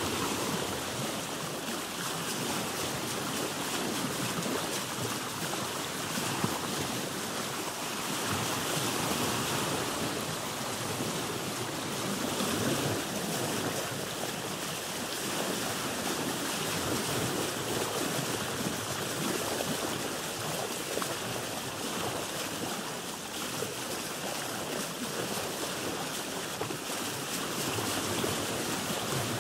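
Seawater lapping and splashing against a boat's hull, with waves swelling and easing every few seconds.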